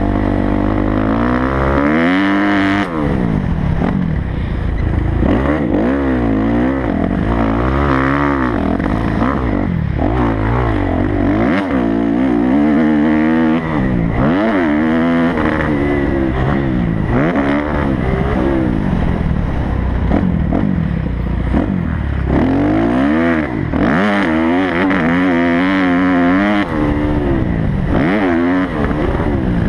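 Kawasaki motocross bike engine revving up and dropping back over and over as the rider accelerates, shifts and rolls off around the track.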